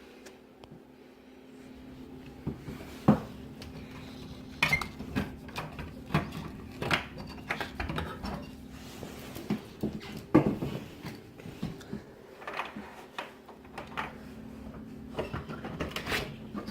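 Irregular clinks and knocks of hard objects, like dishes or utensils being handled, over a steady low hum.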